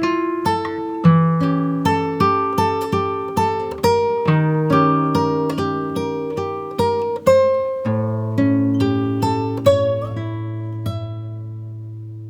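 Background music: acoustic guitar picking a slow melody over chords, the last chord left ringing and fading away near the end.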